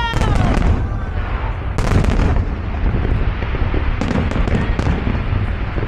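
Aerial fireworks shells bursting in a dense barrage: a continuous low rumble broken by sharp bangs and crackle, the loudest bang about two seconds in.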